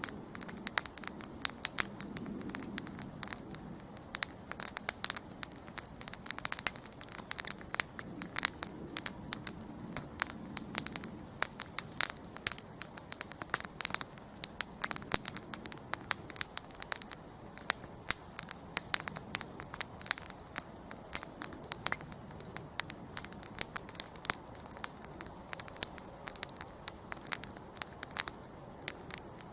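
Wood campfire burning, with dense, irregular crackling and popping over a soft low rush of flame.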